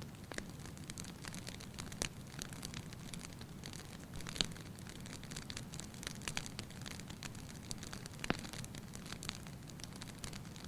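Fire in a fireplace crackling, with irregular sharp pops (three louder ones about 2, 4½ and 8 seconds in) over a low steady rumble of burning.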